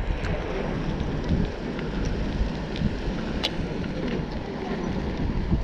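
Wind buffeting the microphone with a steady low rumble while riding a bicycle, with a few scattered small clicks and rattles.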